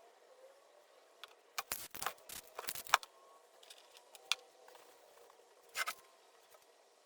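A quick cluster of short, sharp scrapes and clicks about two seconds in, then a single click and one more brief scrape near the end.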